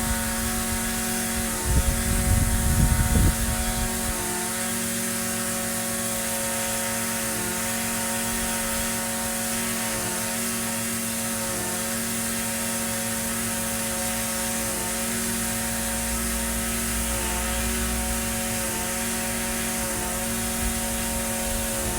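Echo SRM-2620 string trimmer's small two-stroke engine running at a steady, even speed. There are a few louder low thumps about two to three seconds in.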